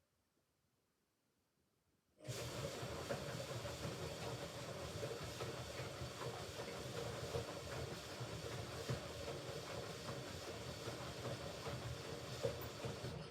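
Hoover Ecologic Computer Washer 1300 taking in water for a rinse: the inlet valve snaps open about two seconds in and mains water hisses into the machine steadily, then cuts off suddenly at the end.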